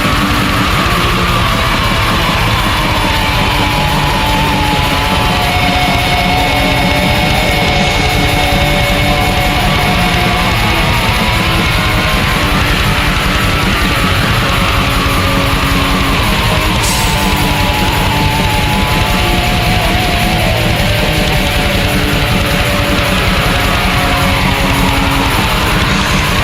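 Black metal: distorted electric guitars over rapid, unbroken drumming, with a melodic guitar line that slowly falls and rises again. Loud and dense throughout.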